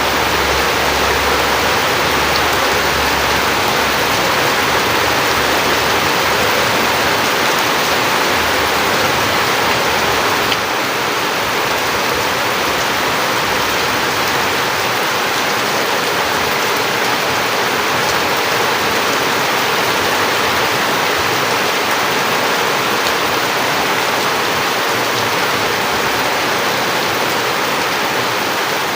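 Heavy rain pouring down steadily, a dense unbroken hiss of rain on surfaces. The level drops slightly about ten seconds in.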